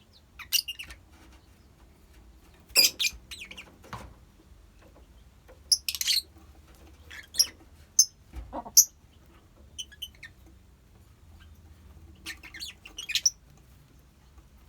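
Lovebirds in a colony giving short high-pitched chirps and squawks in scattered bursts, with quiet gaps between. One dull knock sounds a little past the middle.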